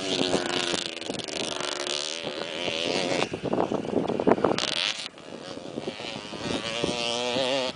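Motocross bike engine revving up and down, its pitch rising and falling again and again, with a rougher crackly stretch in the middle. The sound cuts off abruptly at the end.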